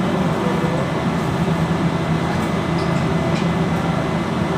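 Steady low drone of running machinery, with a few faint light metallic clicks.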